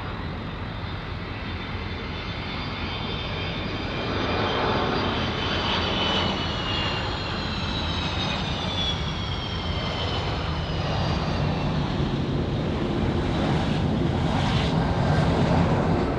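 Jet airliner passing close by, its engines' high whine falling slowly in pitch as it goes past, over a loud, steady rush of jet noise that swells near the end.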